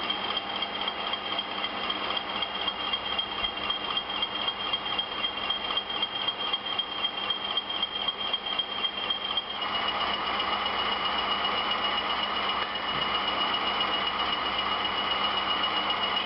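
Bachmann Class 20 model locomotive's DCC sound decoder playing a diesel engine sound through its small onboard speaker while the locomotive crawls at its slowest speed, with a steady high whine over a rattly engine beat. About ten seconds in the sound gets louder and the whine drops slightly in pitch.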